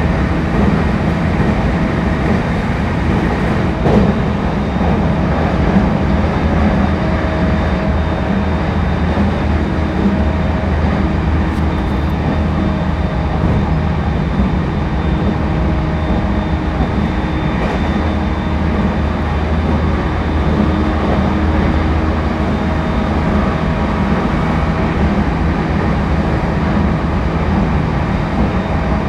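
Interior running noise of a JR East E231-1000 series commuter train (renewed car) at steady speed: a continuous low rumble of wheels on rail, with faint steady tones from the running gear held at an even pitch.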